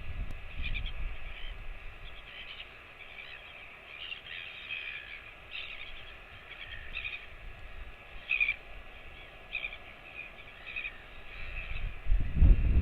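Bird calls: short high chirps repeated irregularly, a few a second at times. A low rumble comes in near the end.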